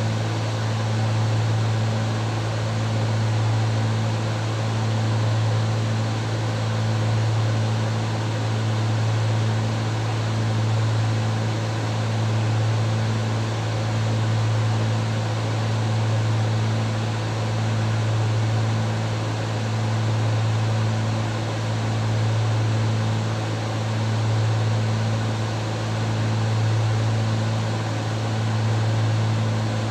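Cessna 310 twin piston engines and propellers droning steadily in flight, heard in the cabin, a deep hum that swells and ebbs slowly every two to three seconds.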